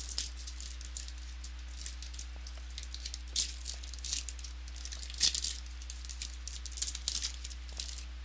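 Trading cards and their packaging being handled: quick bursts of rustling, crinkling and light clicks, the loudest about five seconds in, over a steady low electrical hum.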